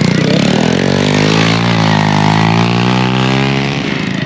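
Postie motorcycle's small single-cylinder engine running close by, its pitch dipping and climbing again.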